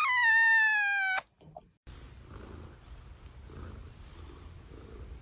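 A cat's long, high-pitched meow that falls in pitch and cuts off abruptly about a second in. After a short break comes a quieter, low, steady rumble with faint regular pulses: a cat purring.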